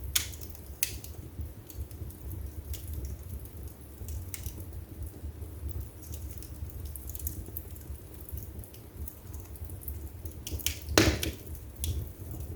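Wood fire burning in a fireplace: a low steady rumble of flames with scattered sharp crackles and pops, and one louder pop about eleven seconds in.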